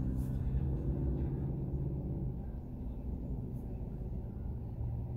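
Car interior with the engine running, a steady low hum, while the car is stopped. Music plays faintly in the car.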